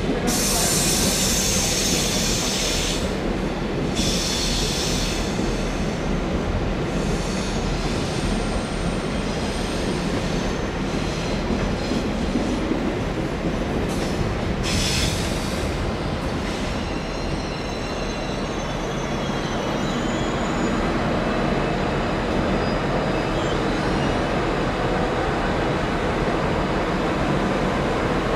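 Passenger train rolling slowly on the station tracks, with wheels squealing in thin high tones. There are short bursts of hiss near the start and about halfway through.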